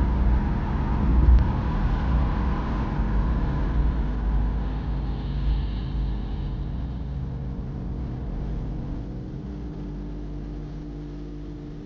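In-cabin engine and road noise of a first-generation Honda CR-V with a 2.0-litre B20 four-cylinder while driving, fading gradually as the car slows to a stop.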